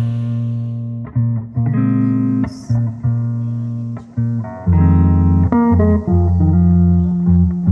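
Background music led by plucked guitar with bass; a fuller, louder bass part comes in about four and a half seconds in.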